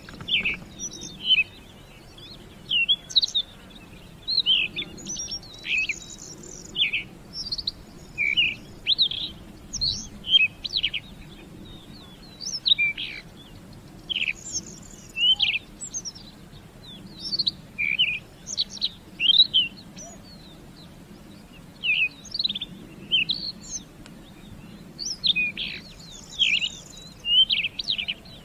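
Lovebirds chirping: short, shrill calls in quick clusters of two to four, repeating every second or so.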